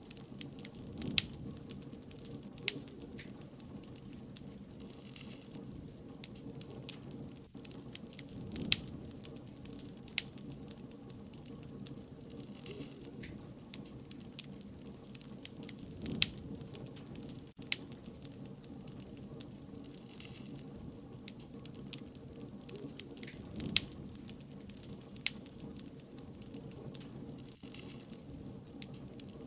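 Wood bonfire burning: a steady low rustle of flames with sharp, irregular crackles and pops every second or so.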